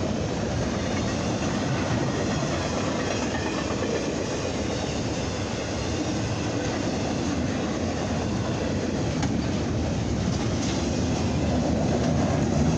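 BNSF intermodal freight cars rolling past, a steady noise of steel wheels on rail with a clickety-clack over the joints.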